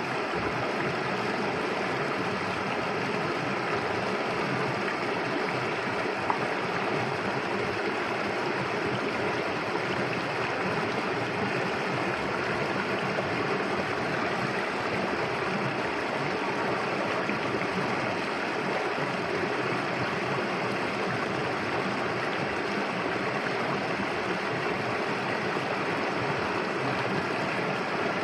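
Clear river water flowing and burbling over stones, a steady rushing sound.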